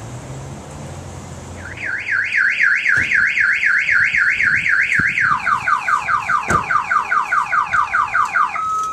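Car alarm siren cycling through its patterns: it starts about a second and a half in with a loud warbling tone rising and falling about four times a second. About halfway it switches to quicker falling whoops, and near the end to a steady tone. Before it starts there is only a low wind rumble.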